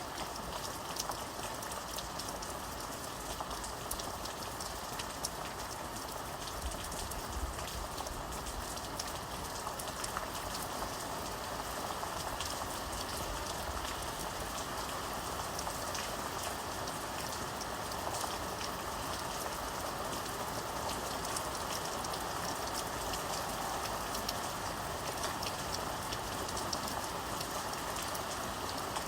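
Steady rain falling, with the fine ticks of many individual drops striking a surface.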